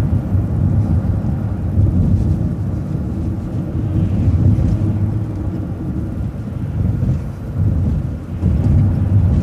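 City transit bus running, a steady low rumble of engine and road noise heard from inside the bus.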